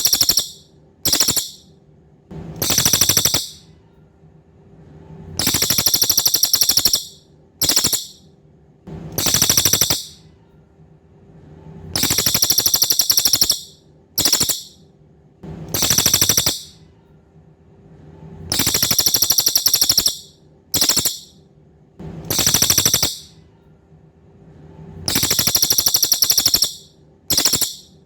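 Cililin songbird singing a loud, fast, high rattling trill in repeated phrases of about a second, most followed by a brief clipped note, with pauses of a second or two between.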